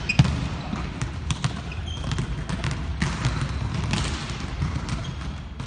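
Volleyballs being hit and bouncing on a hard court floor: many quick, irregular thuds, overlapping.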